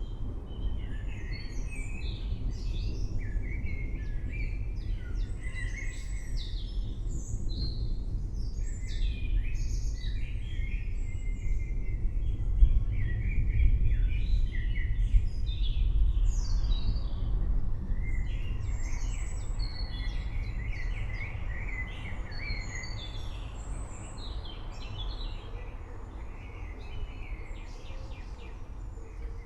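Many forest birds chirping and calling at once, short overlapping phrases throughout, over a deep low rumble of distant thunder that swells about halfway through.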